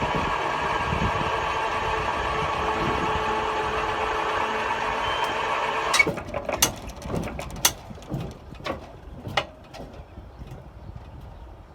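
An engine runs with a steady drone for about six seconds, then cuts off suddenly. A series of sharp clicks and knocks follows.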